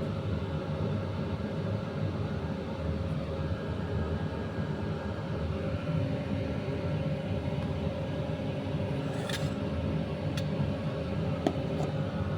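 A steady low machine hum with a constant tone, and a few light clicks near the end.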